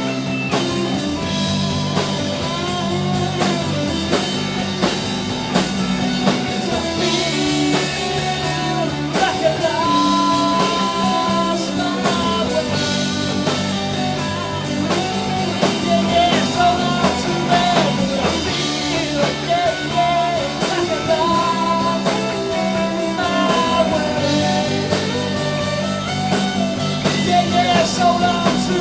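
Live rock band playing: a drum kit keeps a steady beat under guitars, with a lead line that bends in pitch.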